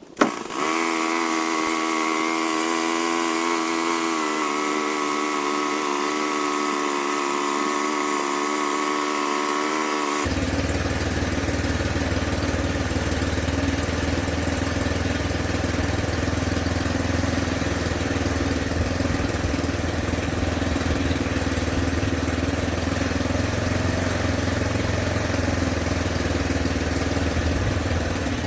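A steady engine-like running sound that starts suddenly, first as a whine of several held tones, then about ten seconds in switching abruptly to a deeper, steady rumble.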